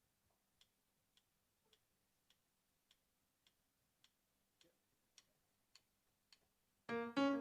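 Faint, steady ticks at an even tempo, a little under two a second, like a click keeping time before a song. Near the end, electric piano chords come in loudly.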